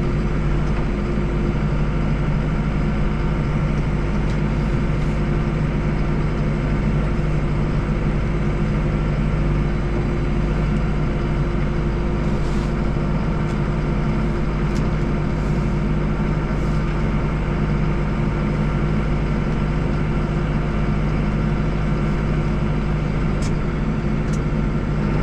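Deutz 5120G tractor's diesel engine running at a steady speed as the tractor drives along, an even, unchanging hum. A few faint ticks sound over it in the middle and near the end.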